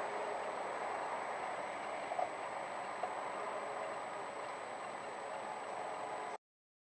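Steady running noise of a vehicle with a thin high whine over it and two faint ticks, cutting off abruptly into silence near the end.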